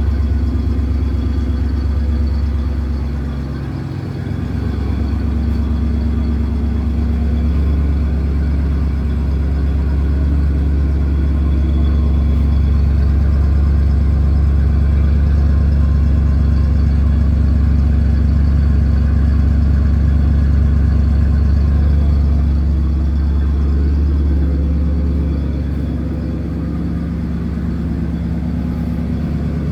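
Mercury Monterey Custom's 6.6-litre V8 idling just after a cold start, a steady deep idle. It dips briefly about four seconds in, and the idle settles and quietens near the end.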